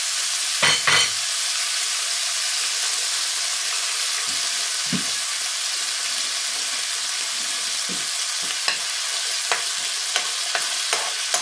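Eggs and pieces of sour pork frying in hot oil in a coated wok, a steady sizzling hiss. There are a couple of sharp knocks about a second in, and in the last few seconds a metal spoon clicks and scrapes against the pan as the eggs are broken up and stirred.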